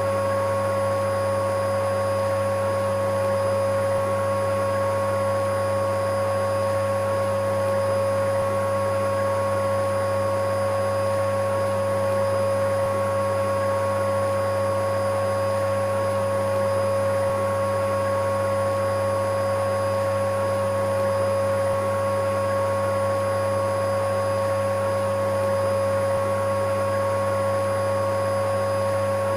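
Electric vacuum cleaner running continuously: a steady motor hum with a held mid-pitched whine, unchanging in pitch and level.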